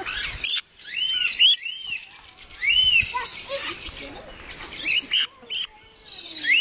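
A group of birds calling close by: many short, arched chirps repeated over and over and overlapping, with a few sharp knocks between them.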